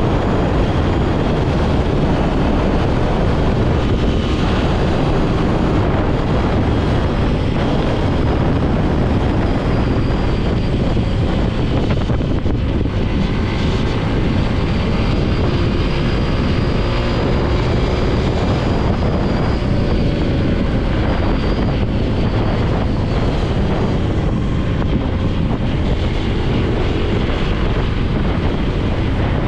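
Motorcycle being ridden at speed: engine running under heavy wind noise on the camera's microphone, its pitch drifting gently up and down.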